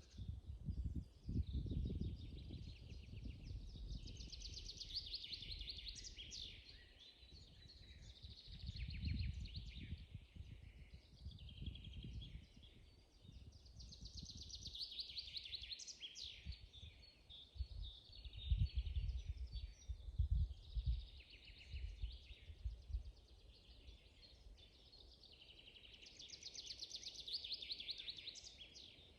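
Songbirds singing in a spring forest, one bird repeating a fast, falling trill phrase about every ten seconds among other chirps. Low gusts of wind rumble on the microphone come and go, loudest about two-thirds of the way through.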